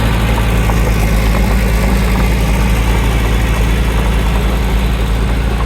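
Heavy diesel engine of earthmoving equipment running steadily at an even speed, with a low, constant drone.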